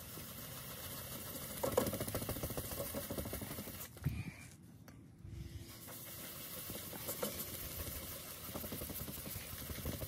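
Wet sponge loaded with baking soda scrubbed rapidly back and forth over a hazy, yellowed plastic headlight lens, polishing off the oxidation. It comes in two bouts with a short pause about four seconds in.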